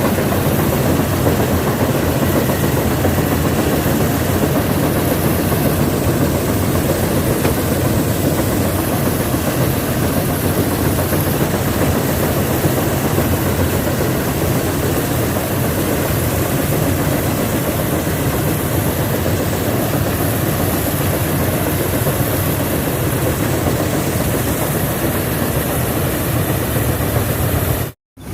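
Combine harvester's diesel engine and machinery running steadily and loudly, cutting out briefly near the end.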